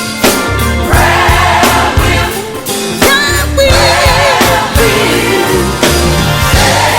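Gospel song: a female vocal group sings held, wavering notes over bass guitar and drums, with no words heard clearly.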